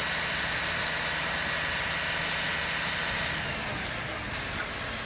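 Heavy vehicle engine running steadily under a dense noise, with a thin high whine that drops in pitch about three and a half seconds in.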